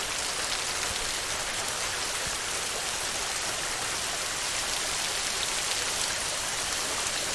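Steady heavy rain drumming on a tin roof, an even, unbroken hiss.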